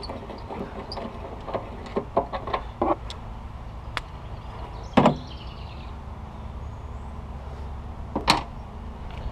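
Irregular metallic clicks and knocks from a hand wrench and the battery hold-down hardware as the hold-down bolt and nut are taken off. The loudest clunk comes about five seconds in and another near the end.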